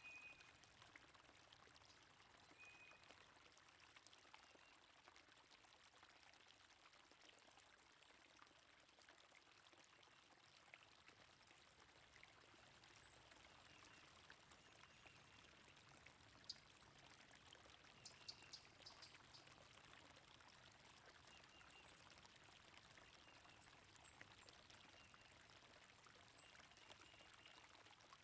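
Faint, steady flowing water, like a stream, with scattered short, high bird chirps.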